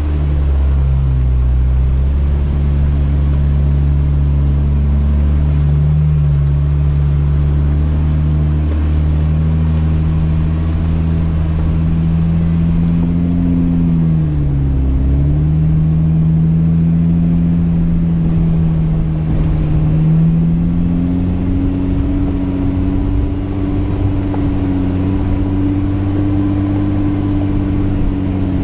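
Jeep Wrangler engine running at low speed on a dirt trail, a steady drone whose pitch dips about halfway through and climbs back a few seconds later.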